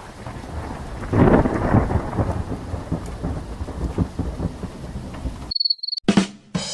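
Thunderstorm sound effect: steady rain with a rumble of thunder swelling about a second in, cutting off abruptly after about five and a half seconds. A short high beep and the start of another effect follow near the end.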